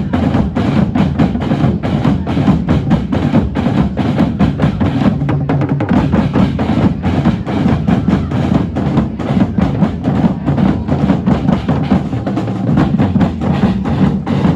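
A drumming band playing a steady, driving rhythm on drums, with a short burst of fast strokes about five seconds in.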